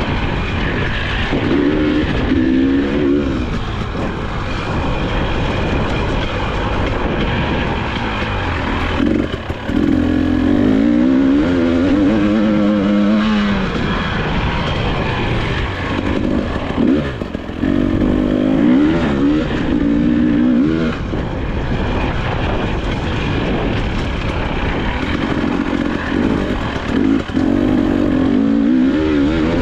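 2022 Husqvarna TE300i, a fuel-injected single-cylinder two-stroke enduro bike, ridden hard around a dirt track. The engine revs up and eases off again and again, its pitch climbing through the gears in four or so pulls, over a constant rushing noise.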